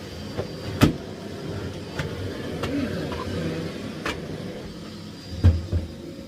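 Miele Blizzard CX1 cylinder vacuum cleaner running at maximum power, with a few sharp knocks, the loudest about five and a half seconds in.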